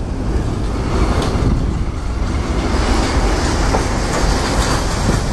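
A diesel-hauled freight train rolls past close by: the DD56 locomotive goes by first, then its container wagons. The steel wheels on the rails make a steady rumble and hiss, with a few sharp clacks over rail joints.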